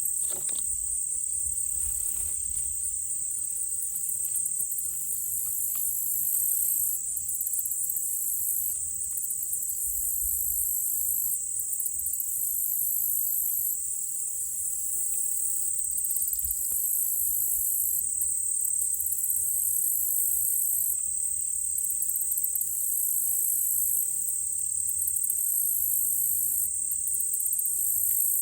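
Chorus of crickets and other insects: a steady high-pitched trill with a shriller layer above it that pulses in long stretches.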